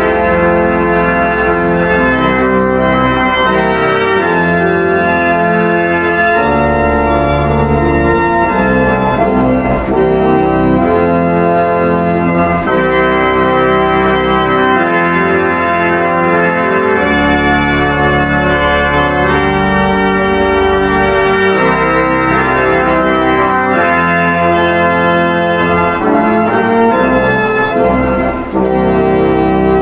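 Organ playing slow, sustained chords with a held bass line, the chords changing every couple of seconds.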